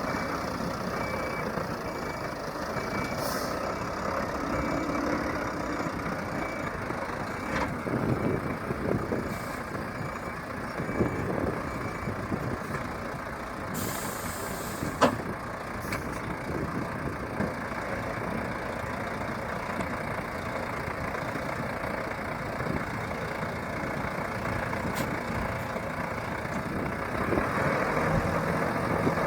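Heavy gravel dump truck's diesel engine running steadily, with a reversing alarm beeping for the first few seconds. About fourteen seconds in, a short hiss of released air, followed by a sharp click.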